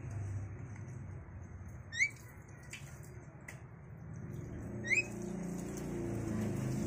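A pet bird gives two short, rising chirps about three seconds apart, with a few faint clicks between them, over a low rumble.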